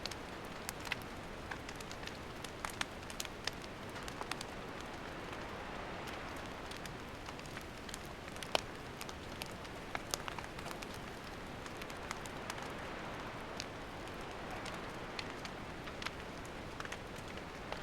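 Wood campfire burning: a steady hiss with irregular sharp crackles and pops, the loudest about eight and a half seconds in.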